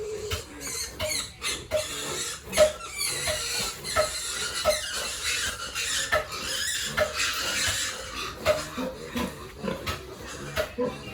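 Pigs squealing in a dense, high-pitched chorus from about three seconds in to about eight seconds, over a regular knocking about twice a second.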